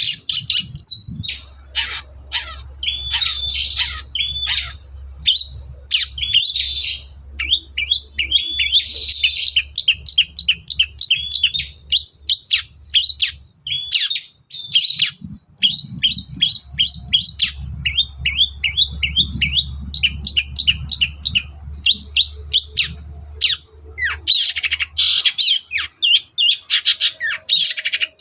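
Long-tailed shrike (cendet) singing, a fast, nearly unbroken run of short chirping notes with brief pauses.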